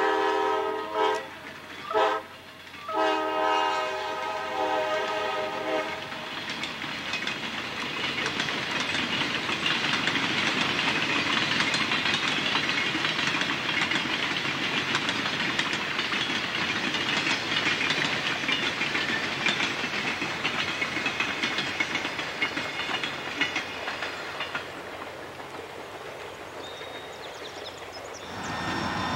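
Diesel locomotive horn sounding three blasts, the last one long and fading out a few seconds in. Then a freight train's boxcars roll past with wheels clattering on the rails, dying away near the end.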